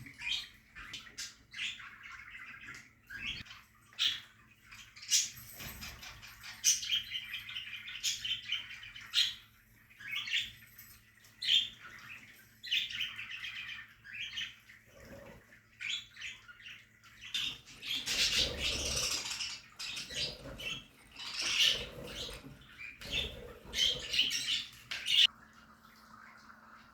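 Budgerigars in an aviary colony chirping and chattering in quick, overlapping calls. The chatter grows busier and louder in the second half, then drops away shortly before the end.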